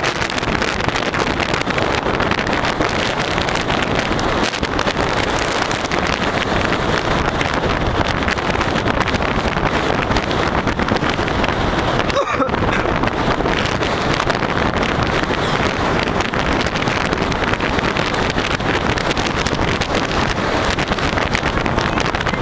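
Strong wind buffeting the camera's microphone: a loud, steady rushing noise, with a momentary dip about twelve seconds in.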